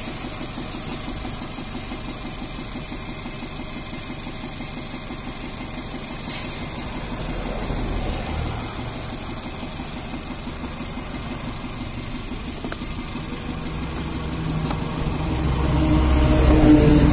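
Chevrolet Spark's engine idling steadily under the open bonnet. It swells louder and deeper near the end.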